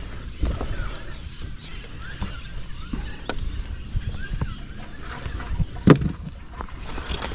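Scattered knocks and handling noise aboard a small boat, the sharpest knock about six seconds in, over a low rumble, with faint bird chirps.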